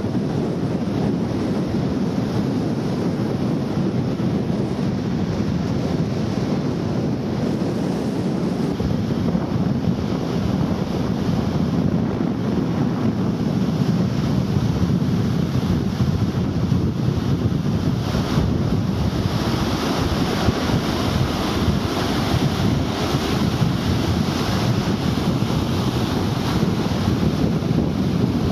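Strong wind rushing over the microphone, with surf beneath it; from about two-thirds of the way in, a brighter hiss joins it.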